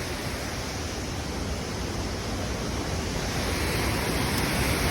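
Steady rushing of a waterfall on a river in heavy flow, growing a little louder near the end.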